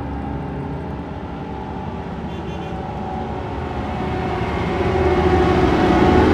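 Heavy diesel farm-machinery engine running steadily, growing louder over the last two seconds or so.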